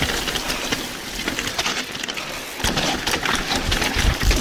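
Mountain bike riding down a rough trail: a steady rush of tyre and wind noise with rattling and clattering over the ground, getting louder about two and a half seconds in.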